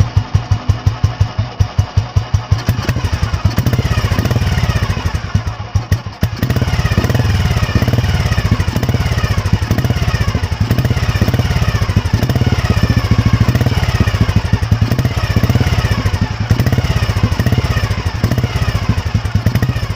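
1991 Royal Enfield Bullet's single-cylinder four-stroke engine, its exhaust note a slow, distinct thump at idle. About three seconds in, the engine speed rises and the beats run together. It drops back to separate thumps around five seconds in, then picks up again and runs fast.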